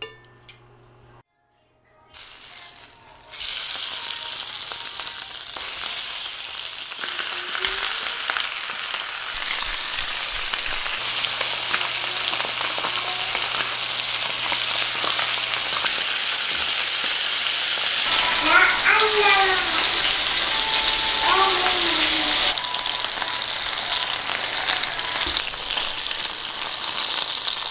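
Chicken pieces sizzling in hot oil in a cast-iron skillet. The sizzling starts about two seconds in, grows louder a second later, and then keeps on steadily.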